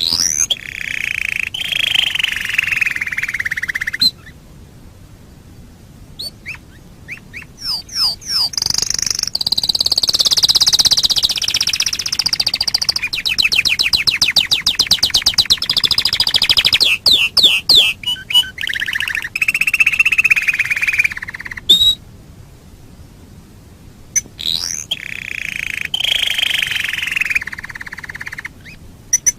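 Domestic canary singing long songs of rapid trills and fast rolling runs of repeated notes. The songs are broken by pauses of a couple of seconds, about four seconds in and again near the end.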